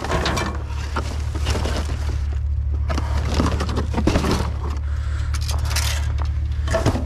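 Junk being rummaged through in a dumpster: irregular clattering, clinking and rustling as items are shifted and pulled out, over a steady low hum.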